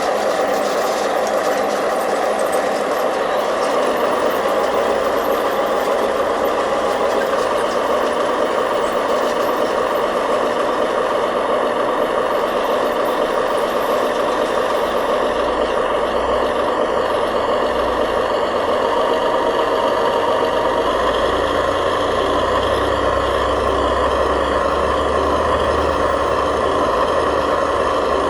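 Remote-control model construction machines, a bulldozer and dump trucks, running steadily with a continuous engine-like mechanical drone. A deeper rumble joins in during the last third.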